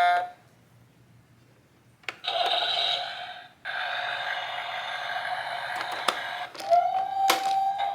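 Battery-powered toy garbage truck playing an electronic buzzing sound effect through its small speaker, set off by lifting its garbage bin. It comes in two stretches about two and six seconds in, and is followed near the end by steady tones and sharp clicks of plastic parts.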